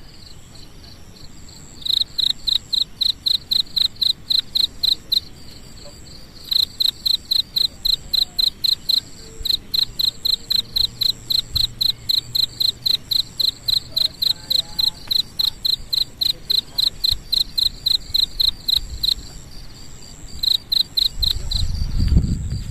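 A cricket chirping in long bouts of rapid, evenly spaced high-pitched chirps, about four to five a second, with short pauses between bouts. A low rumble comes in near the end.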